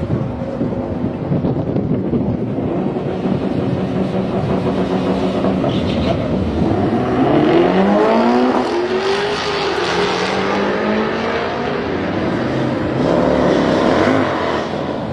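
Yamaha R1 sport bike engine running, then revving hard with its pitch climbing steeply about seven seconds in, falling back, and climbing again near the end.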